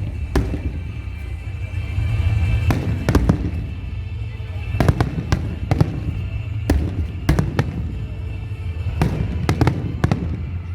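Fireworks display: a constant low rumble of bursting shells broken by sharp bangs and crackles at irregular intervals, several a second at times.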